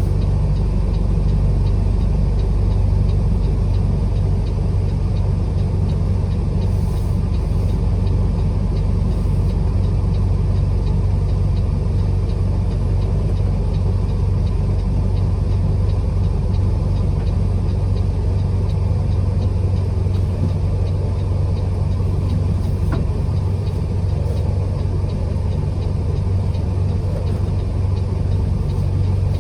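Truck driving along at steady speed: an even, low engine hum with road noise that does not change.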